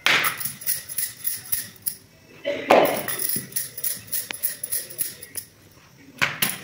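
Dough being rolled out with a wooden rolling pin on a stone counter: the bangles on the rolling wrist clink with each stroke, about three times a second. A louder knock comes at the start and another about two and a half seconds in as the dough is flipped and slapped down.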